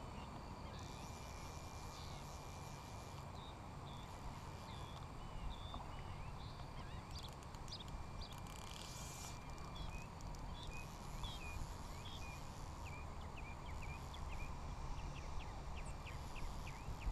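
Scattered short bird chirps over a low wind rumble on the microphone, with a faint steady high tone and a run of faint ticks near the end.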